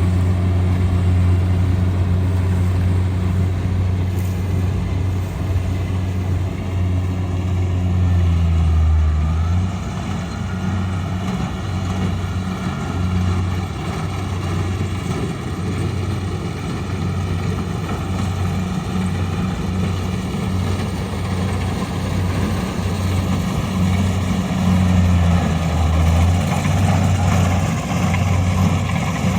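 Rice combine harvester running, its engine giving a steady low hum that begins to waver and pulse about ten seconds in.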